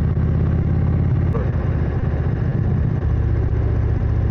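Indian Springfield's 111-cubic-inch (1812 cc) air-cooled V-twin running through Sharkroad aftermarket exhausts while the motorcycle cruises at road speed. The steady engine note shifts briefly about halfway through, then settles again.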